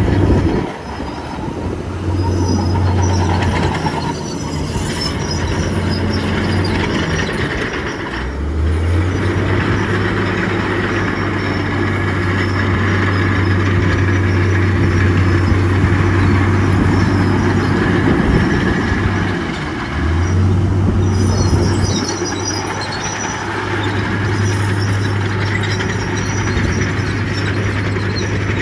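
Bulldozer diesel engine working steadily under load, with the grinding and squealing of steel tracks over it. The engine note eases off briefly three times, about a second in, about a third of the way through and about two thirds of the way through.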